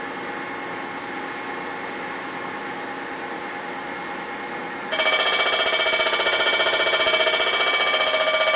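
Milling machine spindle running with a multi-edged cutter. About five seconds in, the cutter bites into the plated metal workpiece and the sound jumps much louder to a ringing, pulsing chatter of several steady tones.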